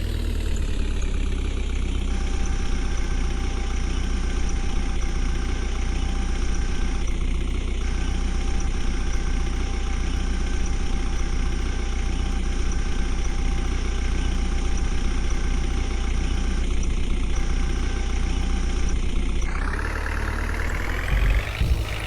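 Tractor diesel engine running steadily at low revs, the revs settling down over the first couple of seconds and rising again near the end.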